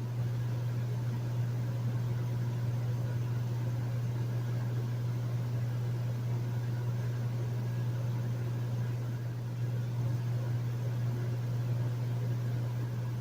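Hotel room air conditioner running steadily: a low, even hum with a soft hiss of air over it.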